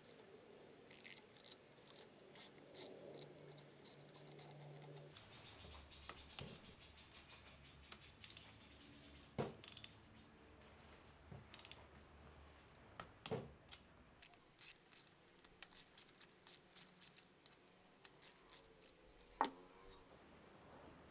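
Faint, quick clicks and light taps in a quiet room, with a few louder knocks about nine, thirteen and nineteen seconds in.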